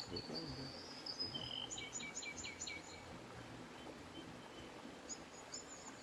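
Small birds calling: a thin held whistle, then a quick run of about five short high chirps about two seconds in, and a few more chirps near the end, over faint outdoor background noise.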